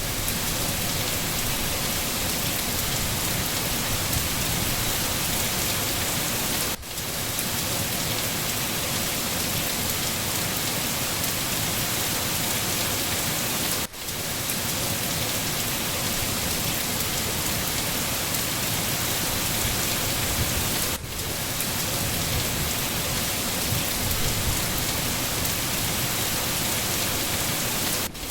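Steady, heavy rain falling, a dense even hiss, with a brief drop in level about every seven seconds.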